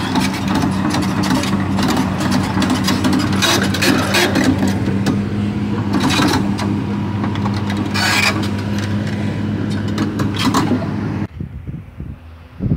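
Diesel engine of a crawler drilling rig running steadily under load as it travels, with irregular clanks and scrapes from the moving tracks. About 11 seconds in the engine sound cuts off suddenly, leaving quieter wind noise.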